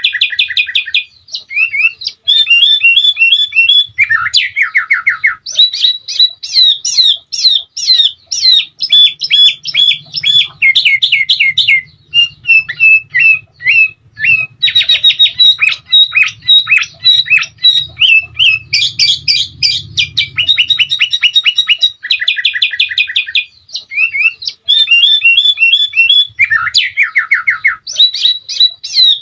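Sooty-headed bulbul (kutilang) in full song: fast, dense strings of sharp whistled notes and chattering trills, broken by short descending trills, with no pauses. The same run of phrases comes round again near the end, as a looped training recording does.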